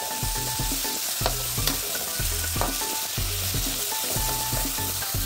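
Stuffed okra sizzling in hot oil in an aluminium kadhai, frying on a low flame, while a metal spoon stirs it, with a few sharp scrapes and knocks of the spoon against the pan.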